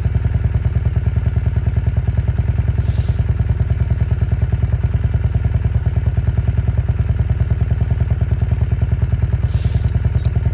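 Old Honda motorcycle engine running steadily at an even speed, a rapid regular low pulse with no revving, as it powers a homemade ski tow rope.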